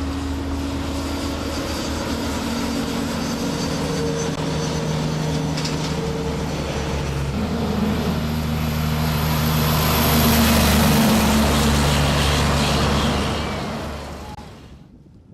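Motorcycle engine running at road speed with a steady rush of wind noise; the engine note shifts pitch a few times, the sound swells louder past the middle, and it drops away abruptly near the end.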